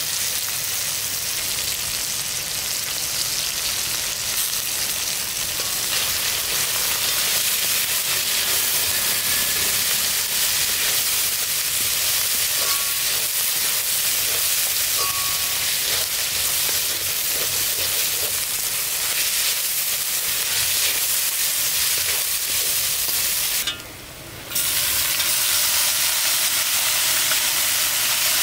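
Onions, tomato, green chillies and curry leaves sizzling in hot oil in a large wok, with a steel ladle stirring and scraping the pan. The sound drops out briefly near the end, then the sizzle of beef frying in the same pan goes on.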